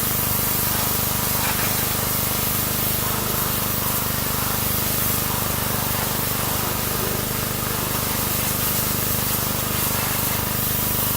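Pressure washer spraying in a steady, unbroken hiss, with the steady low hum of its pump under it.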